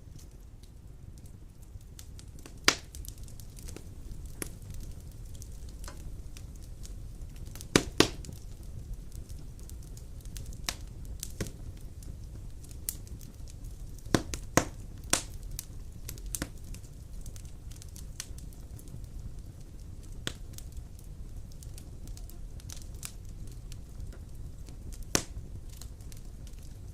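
Wood fire burning in a stone fireplace: a steady low rumble with scattered sharp crackles and pops, loudest about 3, 8, 14 to 15 and 25 seconds in.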